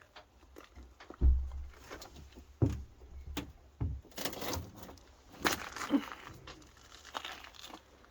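Irregular knocks and thumps with crinkling, rustling handling noise. The loudest is a low thump about a second in, and the rustling comes in the middle.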